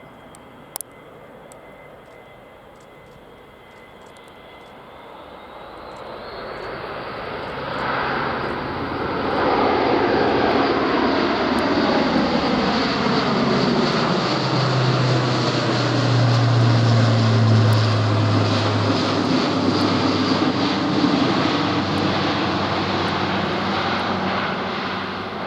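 RAF Airbus A400M's four turboprop engines at go-around power, growing louder as the aircraft comes in low, then passing close with a strong low propeller hum and sweeping shifts in tone. The sound stays loud as it climbs away.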